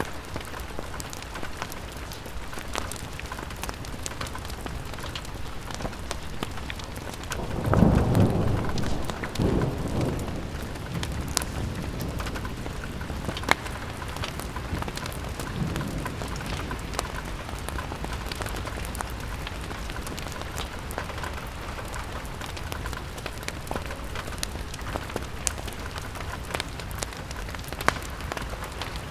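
Steady rain pattering on a window, with scattered sharp ticks. About eight seconds in, a loud deep rumble swells and dies away over two or three seconds, and a weaker one follows a few seconds later.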